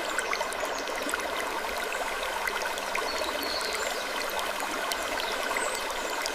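Steady rushing noise like flowing water, with scattered faint ticks and an occasional faint creak of wood.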